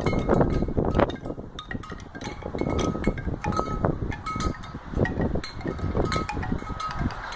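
Wind chimes clinking and ringing with short, bright tones in gusty storm wind, over a low, uneven wind rumble.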